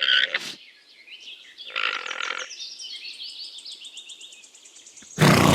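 Alpaca calling in short grunting calls: one at the start, one about two seconds in, and a louder one near the end. Small birds chirp steadily behind them.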